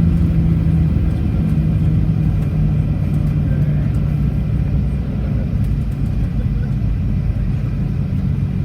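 Cabin noise of a Boeing 737-800 heard from a forward seat: a steady low rumble with a droning hum from its CFM56 engines, easing slightly toward the end.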